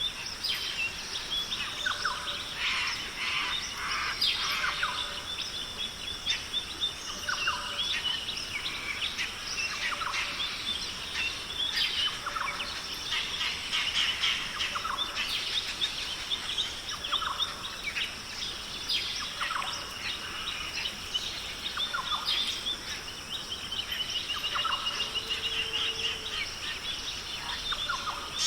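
Rainforest bird chorus: many birds chirping, whistling and calling over one another, with a soft low note repeating about every two seconds and a steady high-pitched hum underneath.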